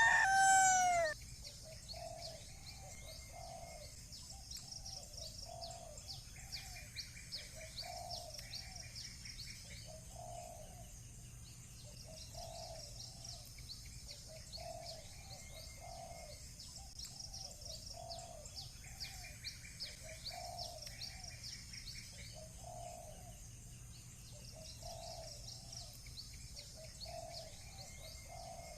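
A rooster's crow trails off in the first second. Then a dove coos over and over in short repeated phrases, over steady high chirping of small birds.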